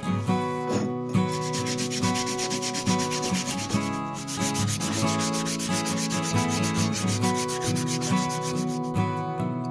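Rapid, even back-and-forth hand sanding or scrubbing strokes on a restoration part, several strokes a second, with pitched background music underneath.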